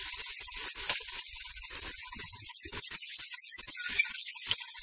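Onions and tomatoes sizzling steadily in hot oil in an aluminium pot, the tomatoes softening down into the fried onions. A few light clicks of the metal ladle against the pot.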